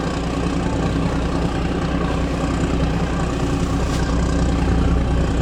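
Heavy diesel engine running steadily at a low, even speed: a deep, constant hum.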